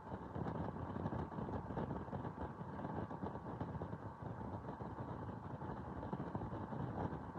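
Moving vehicle running steadily: a dense, continuous rumble with a faint constant whine.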